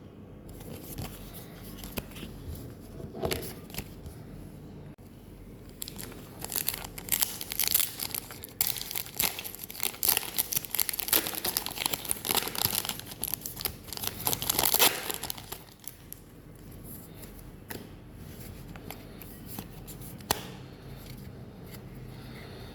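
Plastic foil wrapper of a trading-card booster pack being torn open and crinkled by hand. There are a few scattered crackles at first, then dense crinkling from about six seconds in to about fifteen seconds, then only occasional clicks.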